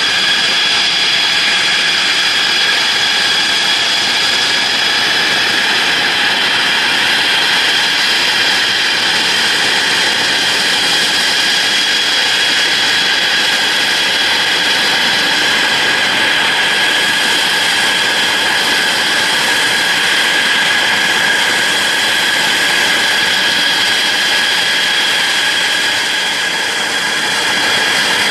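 F-16 Fighting Falcon's turbofan engine running steadily at ground idle: a loud rush with a high, steady whine. Near the end the whine begins to fall in pitch as the engine starts to spool down at shutdown.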